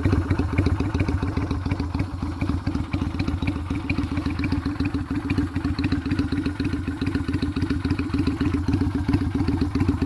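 Yamaha Virago 250 V-twin idling steadily through slash-cut drag-pipe mufflers, a rapid, even train of exhaust pulses.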